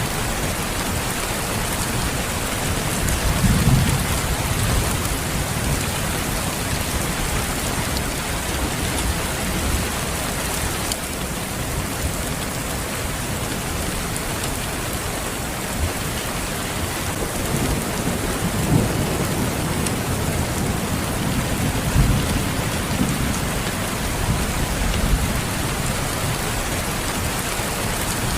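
Steady rain falling, with a few brief low rumbles of thunder coming and going.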